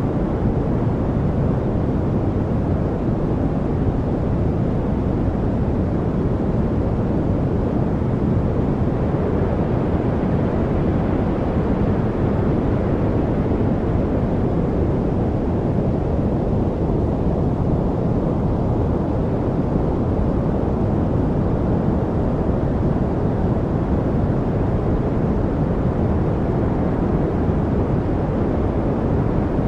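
Steady white-noise track for studying: a deep, even rush of noise that does not change, with no chirps, clicks or other events in it.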